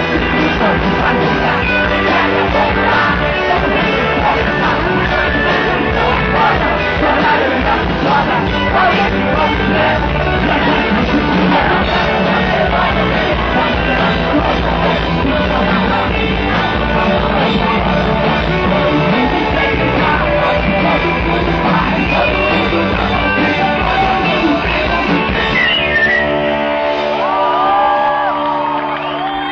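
Rock song with a sung vocal, loud and steady, easing off slightly near the end.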